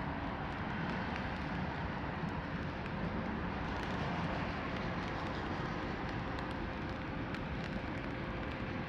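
Steady rain falling, heard from under an umbrella, with scattered drops ticking on the umbrella canopy. A faint steady hum sits under the rain.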